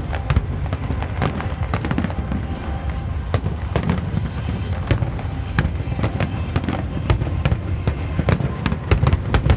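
Aerial fireworks display: a continuous low rumble of shell bursts with many sharp bangs and crackles, thickening into a cluster of loud cracks near the end.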